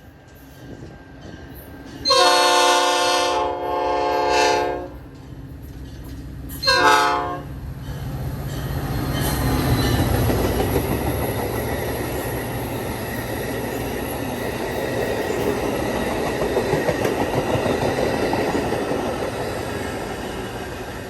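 Train horn sounding several blasts, a long one, a weaker one straight after and a short one a few seconds later, several notes at once. Then the train rumbles past steadily, growing loud and staying loud.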